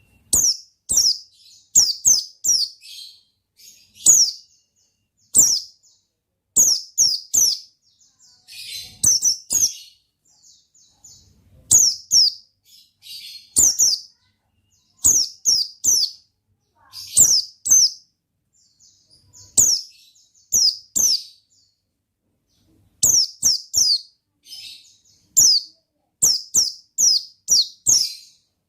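White-eye (pleci) singing hard: clusters of two to five sharp, high chirps, each sweeping downward, repeated every second or two with short pauses between.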